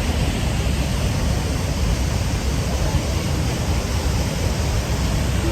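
Steady, loud rushing noise with a strong low rumble and no distinct events.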